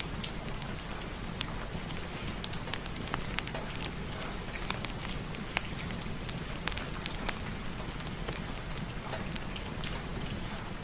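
Steady rain falling, with scattered sharp crackles from a fireplace fire mixed in.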